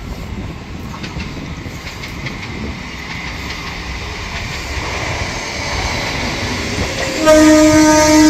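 Katwa–Howrah suburban local train approaching, its rumble and wheel noise growing. Then a loud train horn sounds about seven seconds in, held for more than a second.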